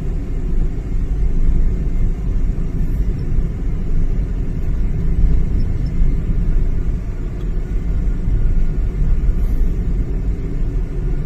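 Steady low rumble of engine and tyre noise inside a vehicle moving along a road.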